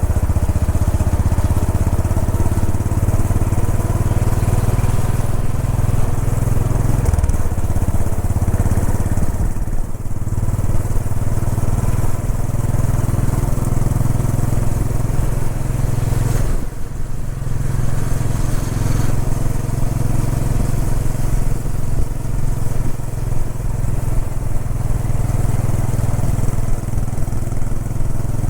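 Royal Enfield Bullet 500's single-cylinder engine running steadily at highway cruising speed over a steady rush of wind, with a brief dip in the engine sound about two-thirds of the way through.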